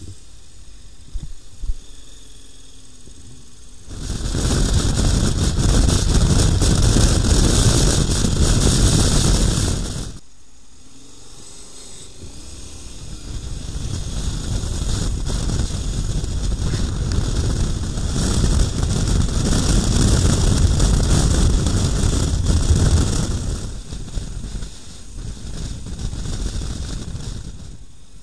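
Wind and road noise of a motorcycle at speed, a loud rushing sound. It comes in suddenly about four seconds in and cuts off abruptly near ten seconds. It then builds up again, holds, and dies away near the end.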